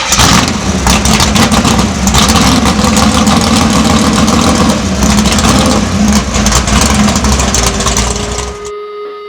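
Vehicle engine running loud and rough through its exhaust, revving, then cutting off near the end.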